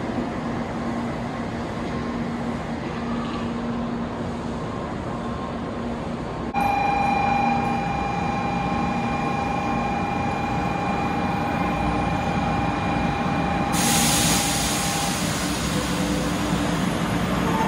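Station platform noise, then a 500-series Shinkansen train pulling in, with steady whining tones over its running noise. A sudden loud hiss of air starts near the end.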